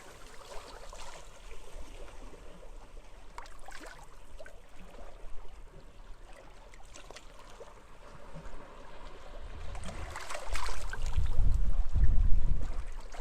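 Small waves lapping and trickling at the shoreline, with light splashes. About ten seconds in, a louder low rumble swells up and then eases off.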